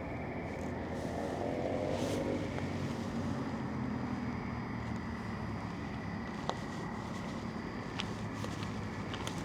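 Road traffic: a vehicle passes, its pitch dropping about two seconds in, over a steady low hum of traffic. A few light clicks near the end.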